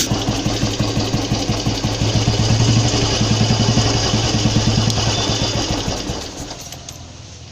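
Royal Enfield Bullet 350 single-cylinder four-stroke engine, fitted with a head altered for twin exhaust ports, running with an even, rapid firing beat. It fades down over the last second or so.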